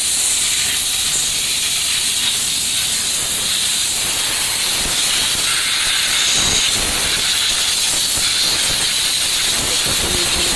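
High-pressure jet hissing steadily, unbroken and at an even strength, as a car's engine bay is washed.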